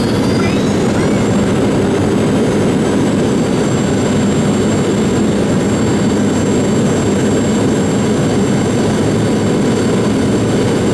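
Boeing 717's twin rear-mounted Rolls-Royce BR715 turbofans heard from inside the cabin, a steady loud roar under a high whine that rises in pitch during the first two seconds, as the engines spool up, and then holds steady.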